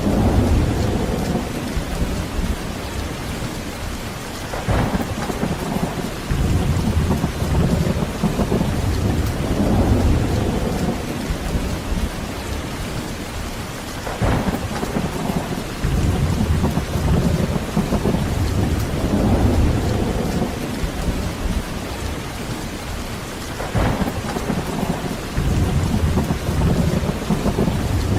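Heavy rain falling steadily, with thunder rolling in low rumbles that swell and fade every few seconds.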